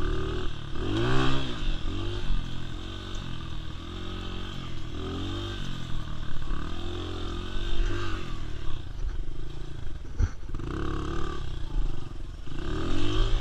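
Dirt bike engine revving, its pitch rising and falling over and over. There is one sharp knock about ten seconds in.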